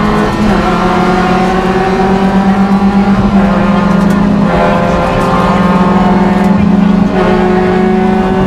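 Rally car engine heard from inside the cabin, running hard at high revs, its pitch stepping up and down a few times as the car accelerates and slows for the road.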